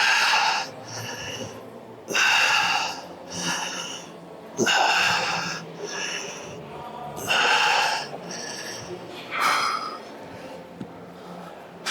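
A man breathing hard through a weight-training set: a loud, forceful exhale about every two and a half seconds, five in all, each followed by a shorter, quieter breath in.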